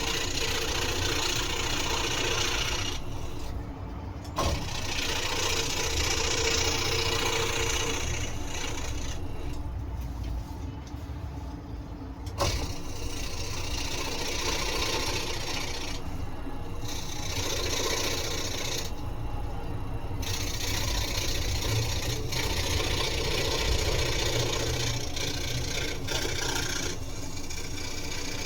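Scroll saw running with a steady low hum, its blade cutting wood in stretches of hiss that break off briefly several times.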